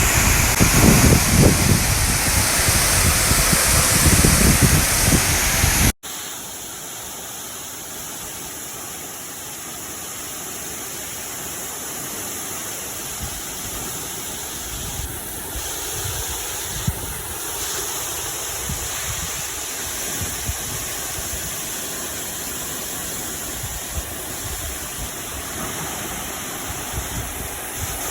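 Rushing creek water, loud and close for about six seconds, then an abrupt cut to a quieter, steady flowing-water sound.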